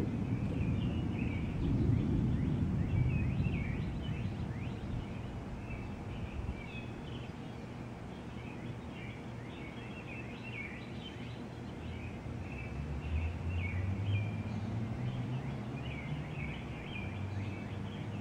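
Distant thunder rumbling and dying away over the first few seconds, with a low rumble rising again in the later part. A steady chorus of high chirping calls goes on throughout.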